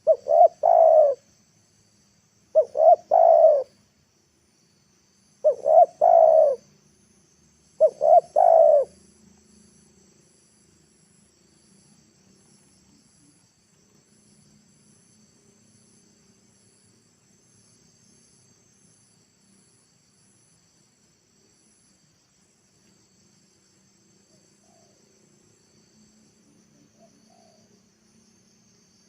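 A spotted dove cooing: four loud phrases of two or three coos each in the first nine seconds, then it falls silent. Faint insects keep up a steady high chirping and pulsing behind it.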